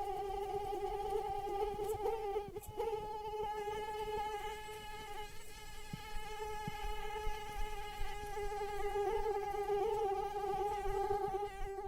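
Female mosquito in flight: the steady, high-pitched whine of its wingbeats, holding one pitch, with a brief dip a little over two seconds in.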